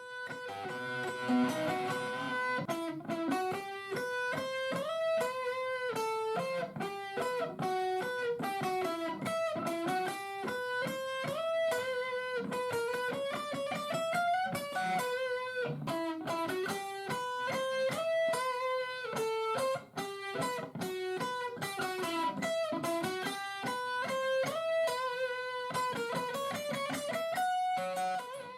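Guitar music: a clean-toned guitar playing a melodic line of single notes that change several times a second.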